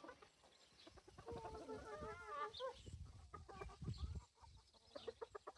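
Hens clucking faintly, with a wavering, drawn-out call about one and a half to two and a half seconds in.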